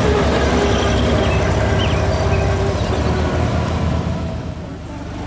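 Tucker 48's rear-mounted flat-six engine running as the car drives away, the sound fading toward the end.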